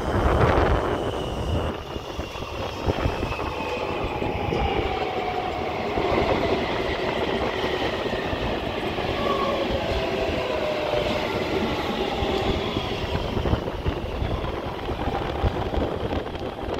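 Taipei Metro C321 electric train's Siemens GTO-VVVF traction inverter whining in several tones that fall slowly in pitch as the train slows, over steady wheel-and-rail rumble.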